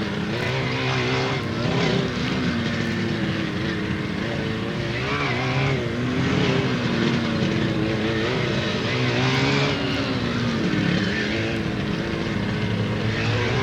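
Sport motorcycle engines running continuously as bikes ride around the practice area, the engine pitch rising and falling again and again as they accelerate and slow.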